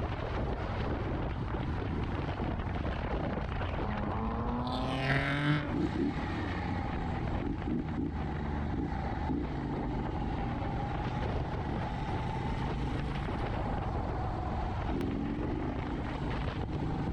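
Motorcycle riding at freeway speed: steady wind and road noise with the engine running. About four to five seconds in, the engine note rises sharply as it revs up, with a brief louder burst.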